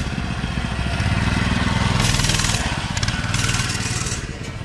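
A small engine running steadily, with a low even pulse that swells a little through the middle. Two brief hissy noises come about two seconds in and again about three and a half seconds in.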